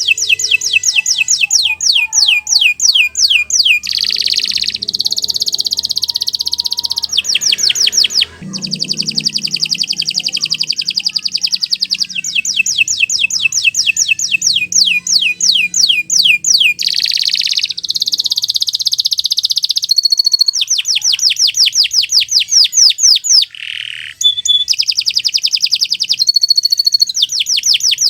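Domestic canary singing a long, nearly unbroken song of fast trills and rolls, with two brief breaks.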